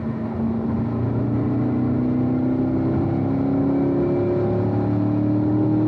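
Car engine heard from inside the cabin, pulling in fourth gear at around 4,000 rpm, its pitch rising slowly and steadily as it accelerates.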